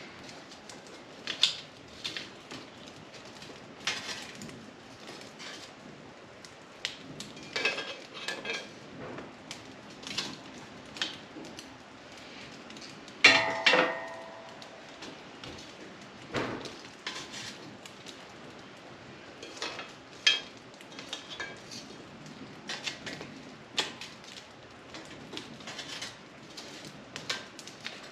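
Cast iron cookware and metal pans being handled, with irregular clinks and knocks. About 13 seconds in comes one louder clang that rings briefly.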